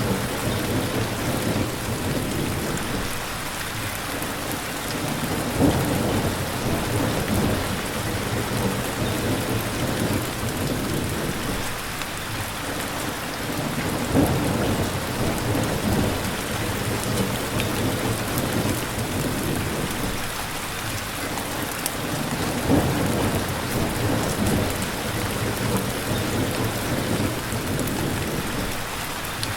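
Steady rain with low thunder rumbling underneath, swelling about every eight or nine seconds.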